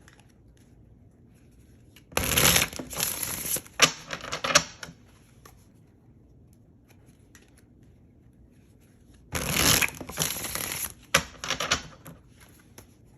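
A deck of oracle cards shuffled by hand in two spells of a few seconds each, about two seconds in and again about nine seconds in, quiet between them.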